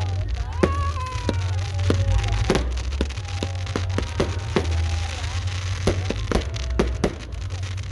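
Aerial fireworks going off in a rapid, irregular string of sharp bangs and reports, with voices calling out over them and a low rumble underneath.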